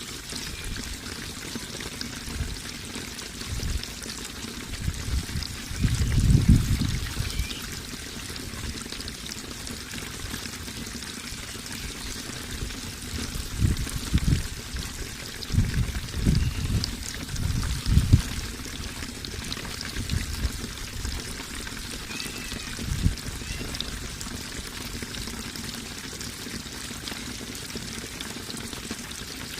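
Water pouring and trickling steadily, like a small stream or cascade, with irregular low rumbling bursts about six seconds in and again between about thirteen and eighteen seconds.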